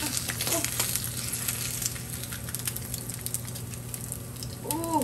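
Eggs and slices of ham frying in oil in a four-cup egg pan, with steady sizzling and crackling.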